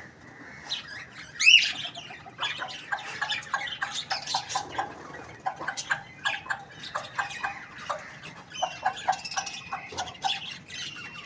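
Chickens calling and clucking in quick, short notes, with one loud squawk about a second and a half in.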